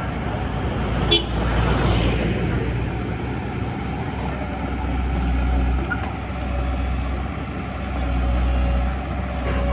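Backhoe's diesel engine running, its rumble swelling and easing, with one sharp clank about a second in.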